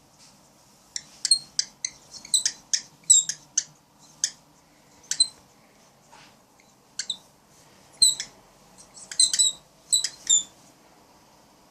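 Cockatiel giving short, sharp, high-pitched chirps, about twenty of them in irregular clusters.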